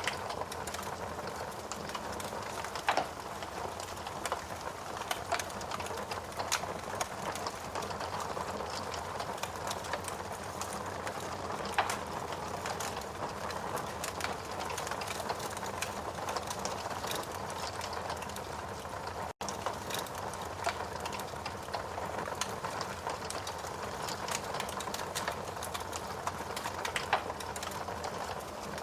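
Steady rain hiss with a wood fire crackling, scattered sharp pops and snaps. The sound cuts out for an instant about two-thirds of the way through.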